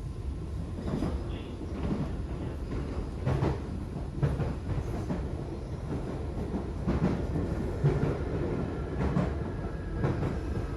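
DART electric commuter train running along the line: a steady low rumble with irregular clacks and knocks from the wheels on the track.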